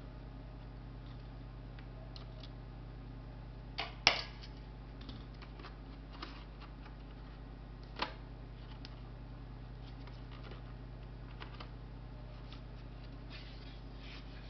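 Small clicks and taps of laptop parts and tools being handled during disassembly, with a sharp click about four seconds in and another about eight seconds in, over a steady low electrical hum.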